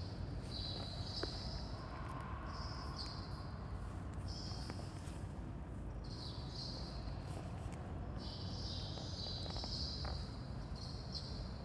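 Insects chirping in repeated short high-pitched buzzing bursts of about half a second to a second, over a low steady background rumble.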